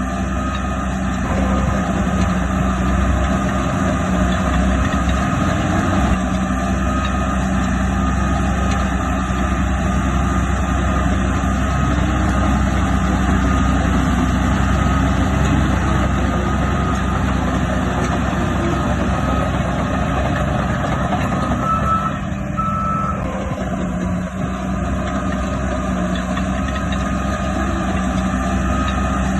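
Heavy diesel earthmoving machinery running steadily, with a reversing alarm beeping in a repeating pattern over the engine.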